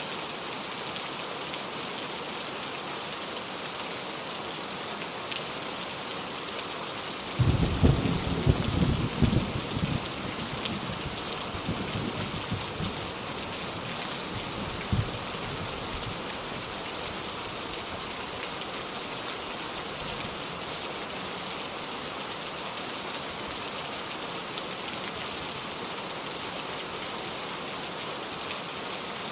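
Steady rain falling on a surface. About seven seconds in a low rumble of thunder sets in, loudest for two or three seconds, with fainter rumbles a few seconds later.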